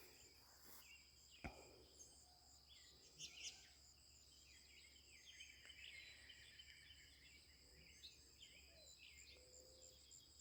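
Faint birdsong: many short chirps and whistles from several birds, over a steady high-pitched hum, with one sharp click about a second and a half in.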